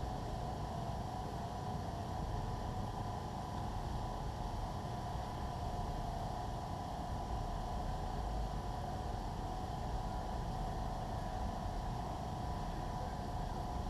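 A steady engine drone, running at an even pace with no revving, with a constant whine over a low rumble.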